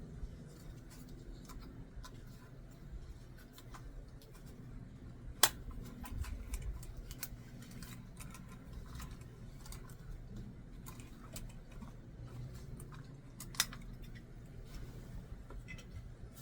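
Scattered small clicks and taps over a low rumble, with two sharper clicks about five and thirteen seconds in.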